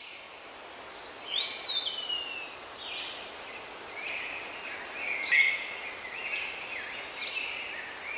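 Songbirds singing, with short whistled phrases that glide in pitch, among them a long falling whistle about a second and a half in, over a steady faint hiss.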